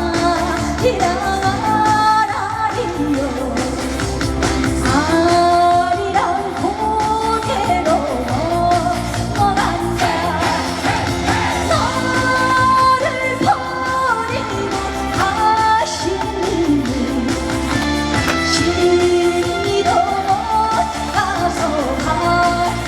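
A woman singing a trot medley live over a backing track with a steady beat; her voice slides and wavers between held notes.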